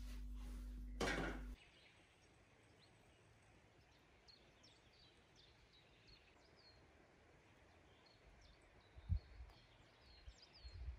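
Faint chirping of small birds: short, high calls that slide downward, repeated irregularly, with one low thump about nine seconds in. Before that, for the first second and a half, a steady electrical hum and a brief clatter, cut off suddenly.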